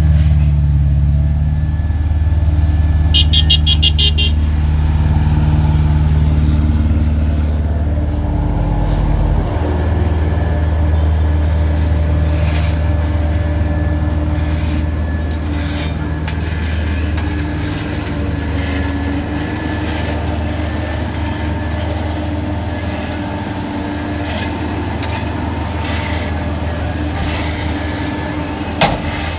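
A motor vehicle engine running steadily with a low hum. About three seconds in comes a brief burst of rapid high-pitched beeps, and a single sharp knock sounds near the end.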